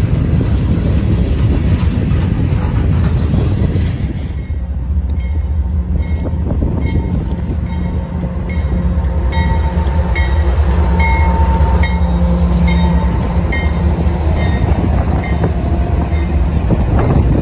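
Freight train on the move. First the rumble of freight cars rolling past. Then, after a break about four seconds in, diesel locomotives approach and pass with a steady low engine drone, while short high dings ring at an even pace, roughly one or two a second.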